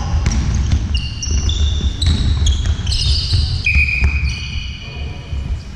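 Indoor basketball play: trainers squeak repeatedly on the court floor in short high squeals, and a ball bounces.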